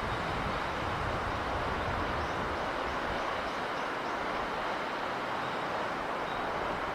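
Steady, even rush of sea breeze and surf noise with no distinct swells. A few faint high chirps come in about two seconds in.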